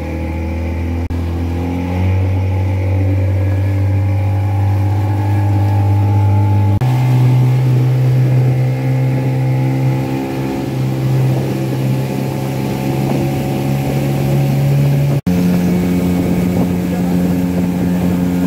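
Fishing boat's engine running under way at speed, a steady drone whose pitch steps up abruptly twice.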